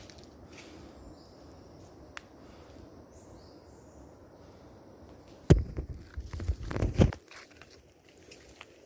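Footsteps on a forest trail: a quick run of loud crackling steps from about five and a half to seven seconds in, over a faint steady background.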